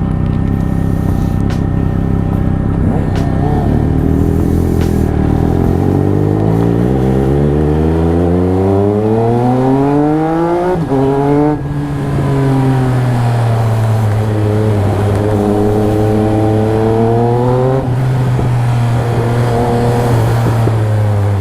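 Triumph Speed Triple RS inline-three engine through an SC Project titanium exhaust, under way. The engine note climbs steadily for several seconds as the bike accelerates, then drops sharply about halfway through as the rider shifts or rolls off. It settles into a steady cruise, dips briefly, and starts climbing again near the end.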